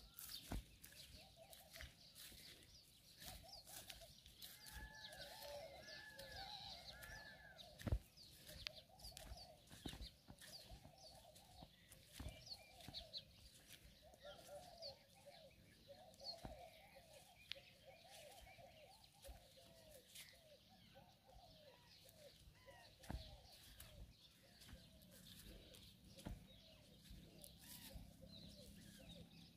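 Birds calling faintly, a steady run of short rising-and-falling calls about once a second, with thin chirps above them. Scattered clicks and knocks come from walking and handling, the loudest about eight seconds in.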